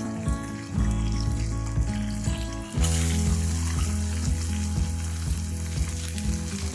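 Chopped onion and coconut sautéing in hot oil in a kadai, sizzling, with the sizzle growing louder about three seconds in. Background music plays throughout.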